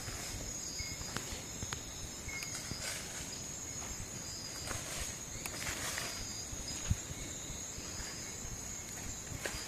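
Night insect chorus: a steady high-pitched trill with a second pulsing tone and short chirps. Scattered rustles and crackles run over it, with one sharper knock about seven seconds in.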